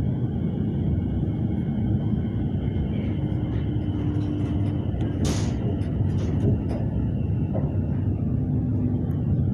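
Siemens Nexas electric train in motion, heard inside the carriage: a steady rumble of wheels on the track. A faint steady tone comes and goes, and there is a brief hiss about five seconds in.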